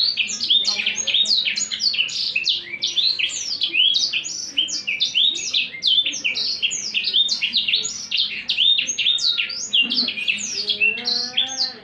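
Songbird singing continuously in full 'gacor' song: a fast, unbroken stream of high chirps and steeply sweeping notes.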